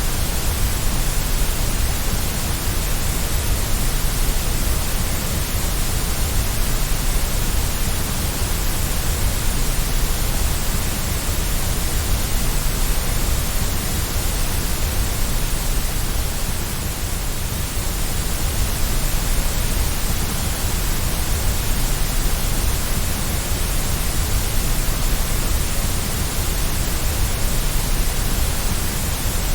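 Steady white noise: a dense, even hiss, fuller in the low end, with no tones or clicks.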